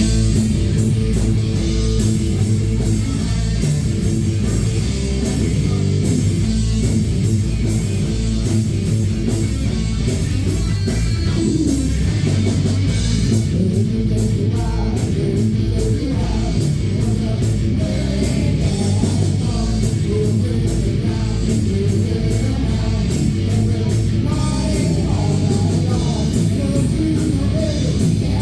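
Rock band playing a song live, with electric guitar and drums; a singing voice comes in about halfway through.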